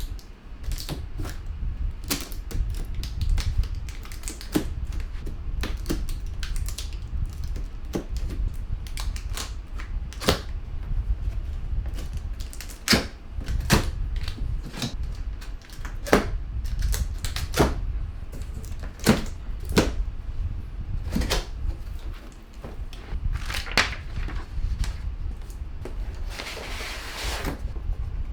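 Handling noise from unboxing a sound bar: irregular knocks, taps and clicks as the cardboard box and packing are handled, over a steady low rumble. A longer rustle comes near the end.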